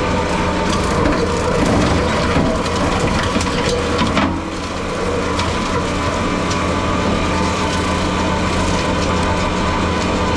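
Skid steer engine running steadily under load while its brushcutter attachment chews through brush and saplings, wood crackling and splintering. A louder crunch comes about four seconds in, after which the crackling eases for a moment.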